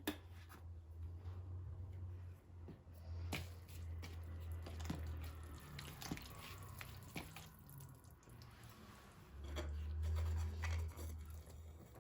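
Kitchen food-preparation handling sounds: scattered small clicks, knocks and soft wet squishing noises over a steady low hum.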